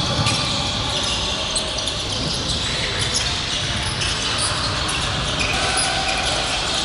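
Basketball game sounds in a gym: a basketball bouncing on the court amid a steady din of voices and movement, echoing in the hall.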